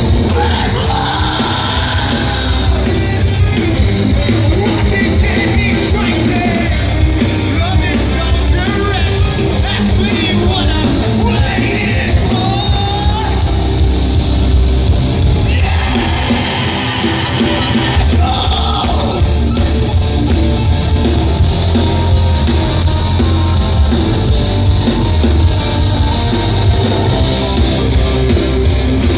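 Loud live rock band playing, with distorted guitars, bass and drums, and a vocalist singing and yelling over them, in a large hall.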